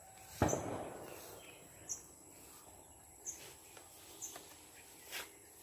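Outdoor ambience with a steady high insect buzz, broken about half a second in by one sharp knock and later by a few smaller clicks and short chirps.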